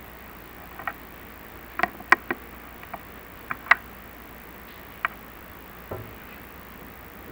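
Irregular sharp clicks and taps, a few a second at most, with a duller knock near the end: a chimney inspection camera and its push cable knocking against the flue tiles as it is lowered down the flue.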